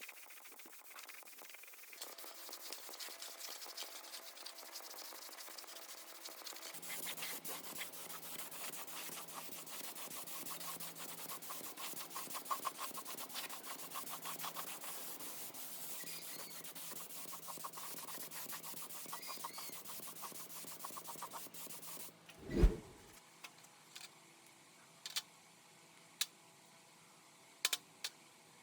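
Steady abrasive rubbing, as of sanding a part by hand, for about twenty seconds. It stops, followed by one loud knock and then a few light clicks.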